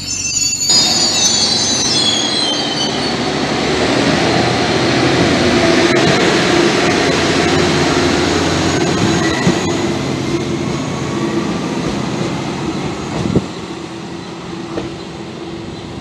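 Regional multi-car train running along the platform: high wheel squeal falling in pitch over the first few seconds, then the steady sound of wheels on the rails, which slowly fades in the last few seconds. A single sharp clack comes near the end.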